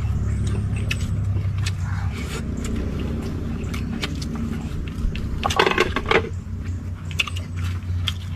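A steady low motor drone, like an engine running, with many short sharp clicks over it and a louder noisy scrape a little past halfway.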